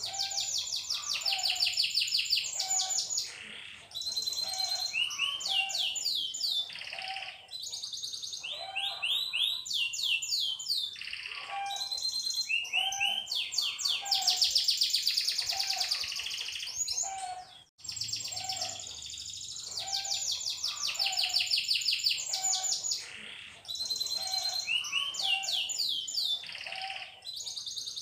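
Domestic canary singing a long, continuous song of rapid trills and rolls with rising and falling sweeps. The song breaks off briefly about two-thirds of the way through and then starts over with the same phrases.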